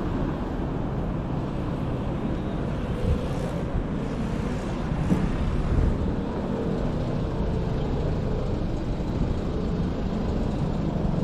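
City street ambience recorded on foot: a steady low rumble of traffic, with a few brief louder moments along the way.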